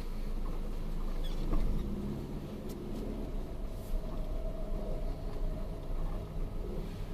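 A car driving, with a steady low engine and road rumble and a few light clicks or rattles in the first half.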